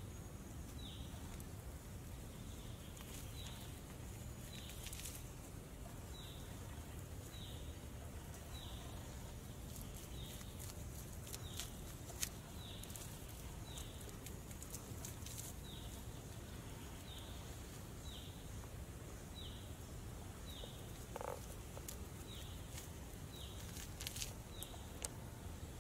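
A small bird repeating a short, high, falling call about once a second over a low outdoor rumble, with a few sharp clicks and taps from hands handling charred baked potatoes.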